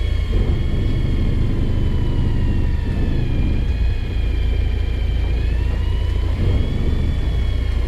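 Fishing boat's engine running steadily: a heavy low rumble under a thin whine that drifts slightly up and down in pitch.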